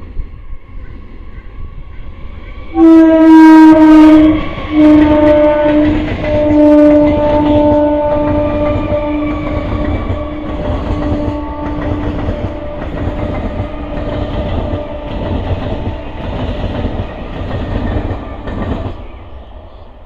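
Electric multiple-unit local train sounding its horn as it passes: a short loud blast about three seconds in, then a second, longer blast that fades and drops slightly in pitch. It is followed by a steady rumble and clickety-clack of wheels over rail joints, which ends a second before the close.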